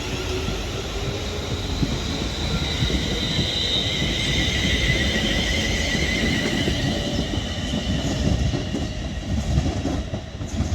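Class 350 Desiro electric multiple unit accelerating away from the station: a whine from the traction motors that rises in pitch, over a steady rumble of the wheels on the track.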